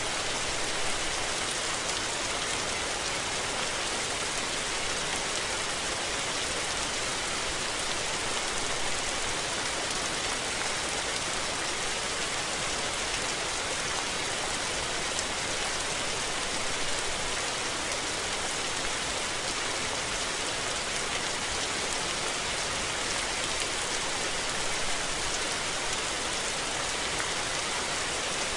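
Steady rain falling, an even hiss with some faint drop ticks.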